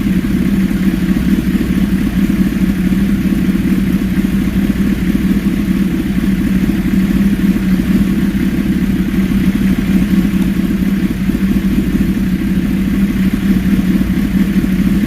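Tuned 2005 Suzuki GSX-R1000's inline-four engine idling steadily.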